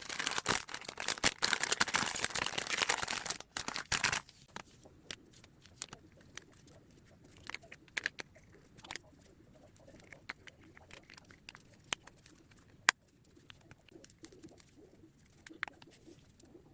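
Crinkling and rustling of packaging being handled for about the first four seconds, then scattered light clicks and taps.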